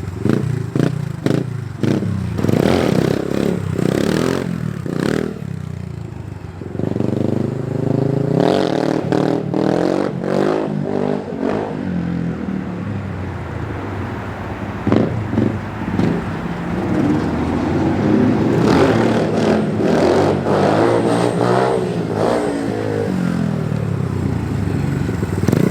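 Small dirt bike engine revving up and dropping back again and again through repeated wheelie runs, with clattery knocks in between.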